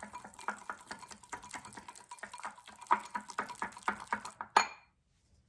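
A spoon stirring melted butter and cocoa powder, scraping and clicking against its container in quick repeated strokes, with one sharper knock near the end before the sound cuts off suddenly.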